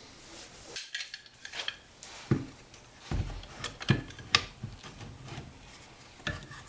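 Thin copper sheet being clamped and bent into shape by hand, giving a series of irregular metallic clanks and taps.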